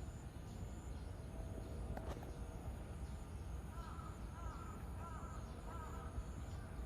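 A bird calling, four short chirping notes in a row, about two a second, over steady outdoor background noise.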